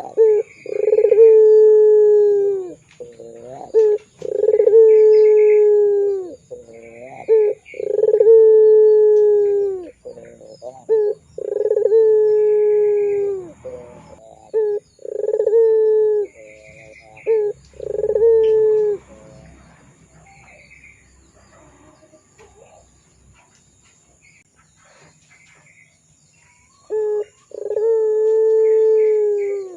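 Puter pelung dove cooing: a series of about six long, deep coos, each held for a second or two and dropping slightly at the end, with short notes between them. The coos pause for several seconds in the second half and start again near the end.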